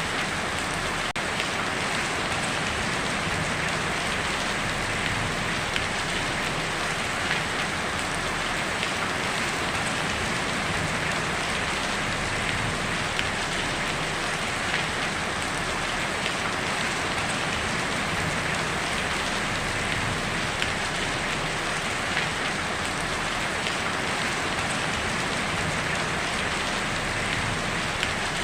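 Heavy rain falling steadily on a tin roof: a dense, even hiss of drops with occasional slightly louder hits.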